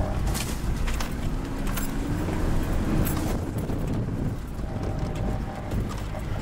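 Mitsubishi Pajero's 2.8-litre turbo-diesel engine revving, its pitch rising and falling as it works through wet grass, with a few sharp knocks.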